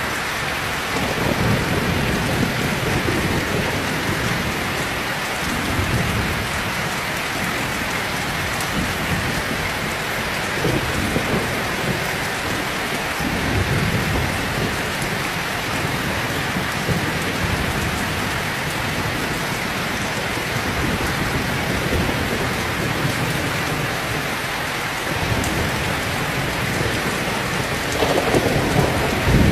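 Heavy rain falling steadily, with thunder rumbling low in repeated rolling swells and a louder rumble building near the end.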